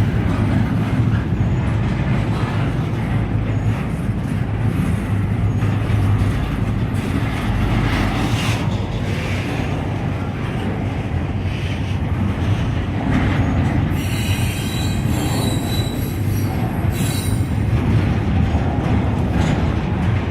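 Freight train of mixed cars and double-stack container cars rolling steadily past, a continuous low rolling noise of wheels on rail. About two-thirds of the way through, high-pitched wheel squeal comes in and recurs in spells.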